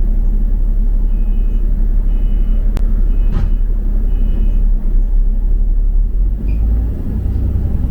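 Double-decker bus engine rumbling heavily under the cabin, with four short two-tone beeps about a second apart, a sharp click partway through, and a change in the engine note near the end.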